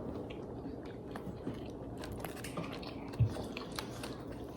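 A person chewing and biting food, with small wet mouth clicks, and a single soft knock about three seconds in.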